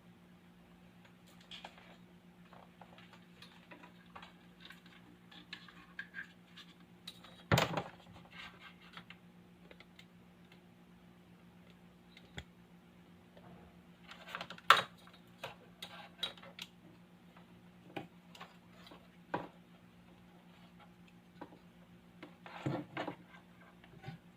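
A speaker's steady low electrical hum, the fault being fixed, with scattered light clicks, taps and clatters over it. The loudest knocks come about a third of the way in, just past halfway, and near the end.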